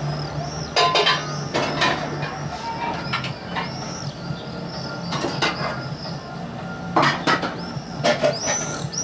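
Birds calling in repeated short, high chirps over a steady low hum. Several brief noisy rushes break in, the loudest about a second in and again about seven seconds in.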